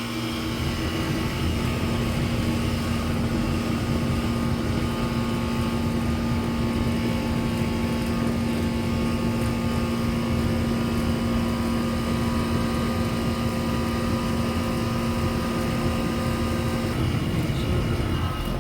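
Outdoor air-conditioning condenser unit running steadily: a low compressor hum with several steady tones, under the even rush of its fan blowing air upward.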